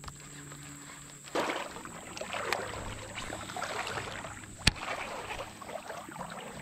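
Splashing and sloshing in shallow water, starting suddenly about a second and a half in, with a sharp click near the middle.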